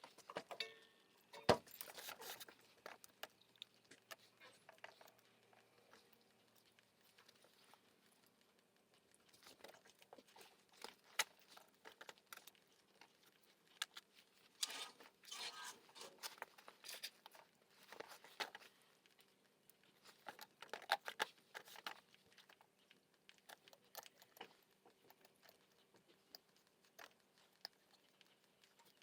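Scattered clicks, light clinks and rustling of small metal tools and parts being handled and set down, with bursts of crinkling like packaging, in quiet pauses of brake-caliper work.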